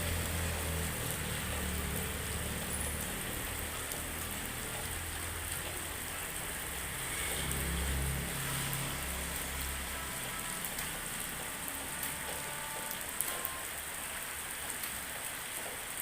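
Steady drizzle falling on surfaces, an even hiss. A low engine hum sits underneath and fades out about ten seconds in.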